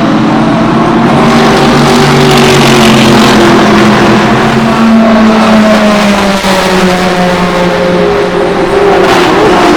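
Race car engines running loud at speed, several at once with overlapping notes, one note falling in pitch as a car slows, over a steady hiss.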